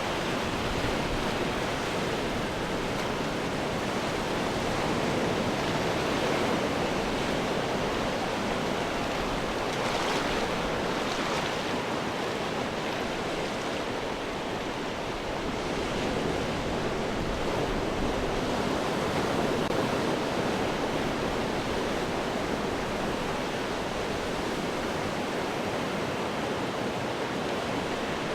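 Ocean waves breaking on rocks: a continuous wash of surf that swells and eases, with a brighter, hissier splash about ten seconds in.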